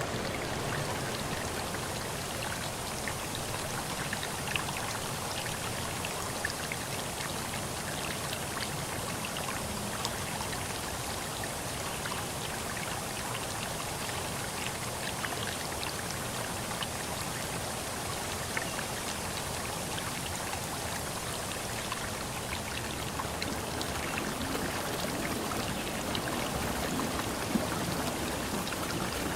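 Forest stream flowing steadily over its bed, a continuous rush of water with small splashes and droplet ticks scattered through it.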